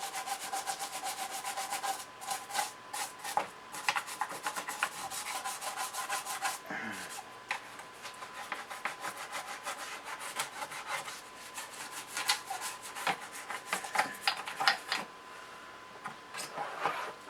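Toothbrush bristles scrubbing grime off an aluminium chassis in quick, rapid back-and-forth strokes, easing off near the end.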